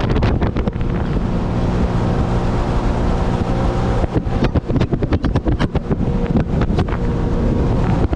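Jet ski engine running steadily, with heavy wind buffeting on the microphone. From about four seconds in, many short sharp hits crackle over it.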